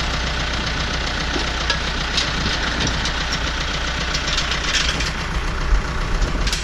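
Ford 5610 tractor's diesel engine running steadily, with a few short clanks over it.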